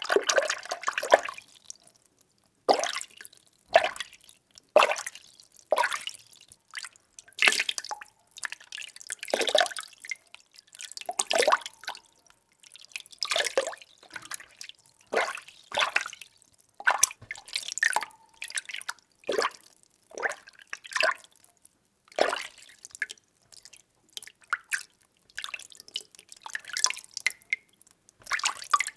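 Water being stirred: short, irregular splashes of moving water, about one a second, with brief pauses between them.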